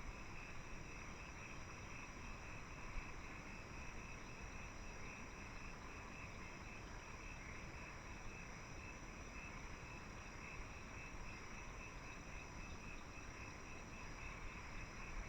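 Faint, steady chorus of crickets and other insects: a continuous pulsing trill with higher steady tones above it, over a low background rumble.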